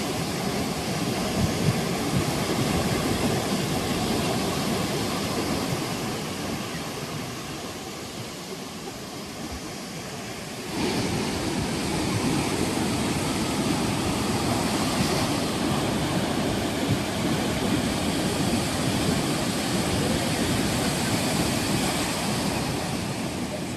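Ocean surf washing onto a beach, a steady rush of breaking waves; it eases off for a few seconds, then a wave breaks and the rush comes back up abruptly a little before halfway.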